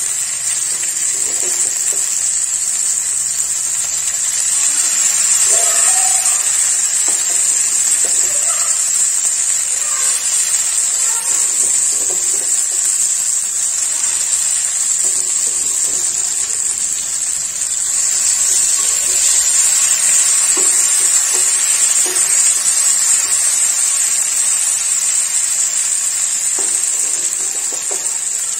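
Boiled jackfruit seeds and onion sizzling steadily in hot coconut oil in a non-stick frying pan, stirred and turned with a wooden spatula, with light scrapes and taps of the spatula in the pan.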